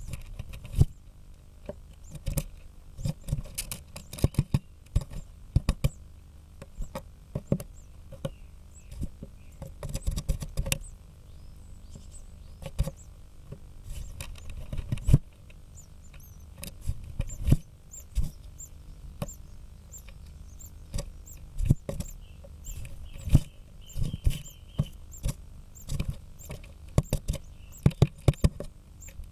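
Female great spotted woodpecker hammering at a blue tit nest to break in: irregular sharp knocks and chips at wood, some in quick runs and some single, with short pauses between.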